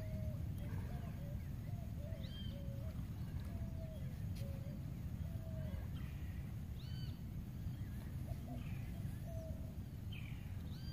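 Birds calling over a steady low rumble: a run of short, low whistled notes, a couple a second, thinning out after about five seconds, and a few times a higher, arched whistle.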